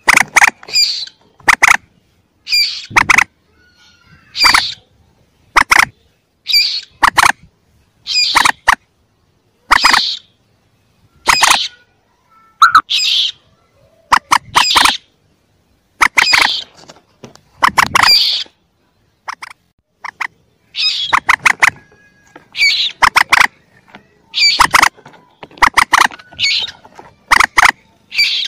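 Recorded calls of young common moorhens used as a bird-hunting lure: short, loud call bursts repeating about every second and a half, with silence between.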